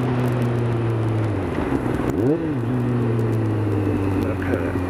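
Kawasaki ZZR600's inline-four engine running under way, heard from the rider's seat over wind noise; its note drops about a second and a half in, with a brief rise and fall in pitch just after.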